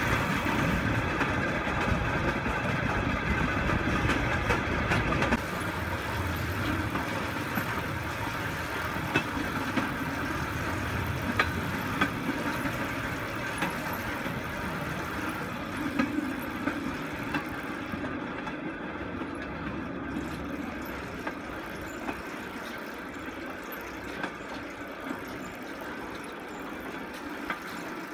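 Steel wheels of a pedal-powered rail bike rolling along railroad track: a steady rumble with occasional sharp clicks, growing quieter toward the end.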